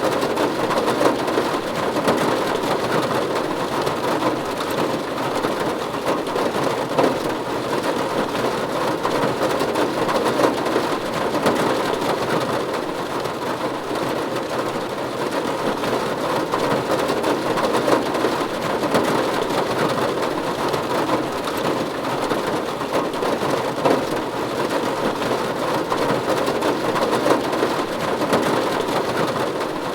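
Steady rain falling on a roof: a dense, even patter of drops with no breaks.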